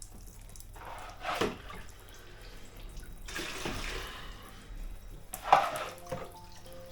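Water dripping and splashing in several separate spills inside a boat, the loudest about five and a half seconds in: the sign of a leak.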